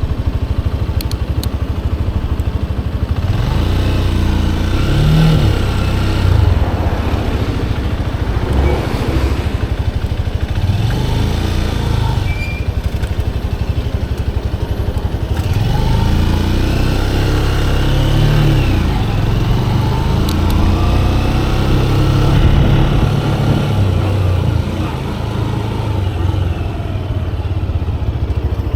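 Manual-gearbox motorcycle engine running while riding, its note rising and falling several times as it accelerates and eases off, over a steady rushing noise.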